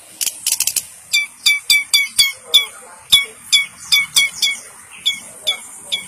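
Long-tailed shrike (cendet) calling: a quick cluster of sharp notes, then a run of short, high, falling chirps repeated about two to three times a second.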